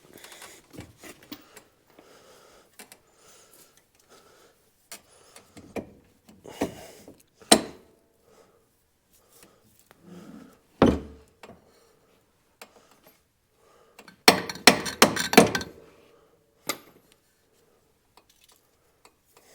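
Metal hand tools and parts clinking and knocking at irregular intervals, with a quick run of loud knocks about fourteen seconds in.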